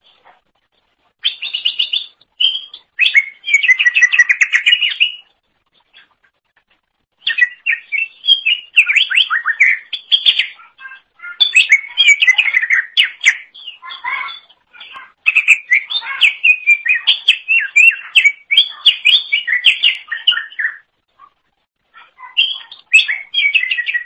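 Greater green leafbird (cucak ijo) singing vigorously: long runs of rapid, varied chattering and whistled notes in four phrases, broken by short pauses.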